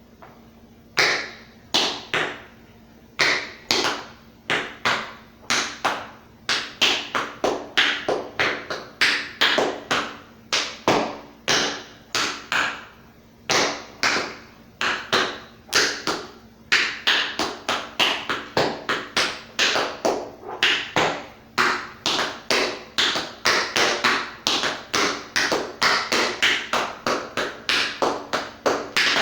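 Tap shoes striking the floor in rhythmic patterns of sharp metallic taps, grouped in quick runs and accents, as a tap routine is danced without music.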